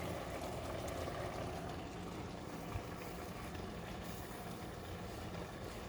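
Steady low background hum with a faint hiss, and a single light tap about three seconds in.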